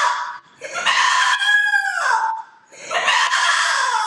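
A man imitating a goat with his voice: two long, high, quavering bleats, the second starting about three seconds in.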